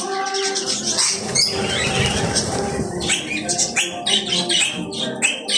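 A flock of budgerigars chattering, with many quick, overlapping high chirps and warbles. There is a burst of rustling noise about one to three seconds in.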